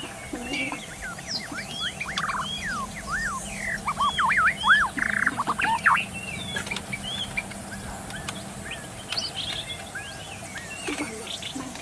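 White-rumped shama (murai batu) singing: a fast, varied run of whistled notes that sweep up and down in loops and glides, densest and loudest about four to six seconds in, then thinning to scattered chirps.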